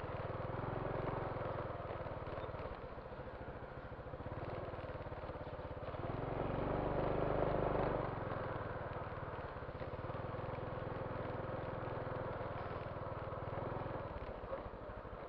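Motorcycle engine running steadily while riding, growing louder for about two seconds midway as it pulls harder.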